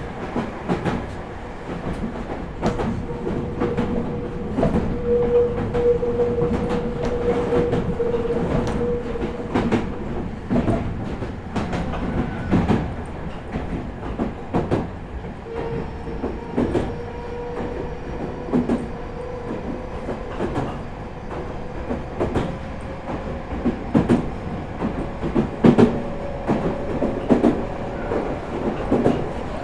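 Meitetsu 4000 series electric train running between stations, heard from inside the car: a steady rumble with wheels clacking over rail joints at irregular intervals. A faint steady tone drops out about ten seconds in and comes back a few seconds later, rising slightly.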